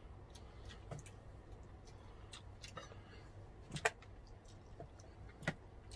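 Faint eating sounds: sparse, soft mouth clicks and smacks of chewing fish and rice close to the microphone, the sharpest a little under four seconds in and another about five and a half seconds in.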